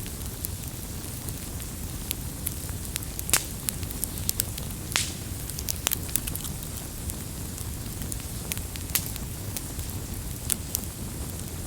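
Wood campfire burning with a steady low rumble and irregular sharp crackles and pops, a few louder snaps among them.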